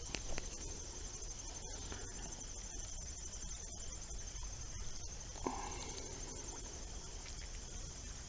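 Steady high-pitched trilling of an insect chorus, with a low steady rumble underneath and a single short click about five and a half seconds in.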